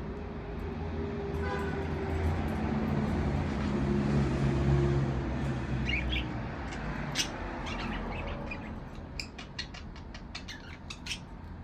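A vehicle passes, its engine hum swelling and fading over the first six seconds; then budgerigars chirp in short, sharp calls, coming thick and fast near the end.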